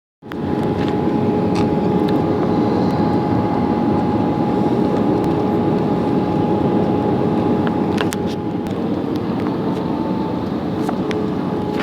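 Jet airliner cabin noise: a steady rumble of engines and airflow with a constant hum of two held tones and a few faint clicks.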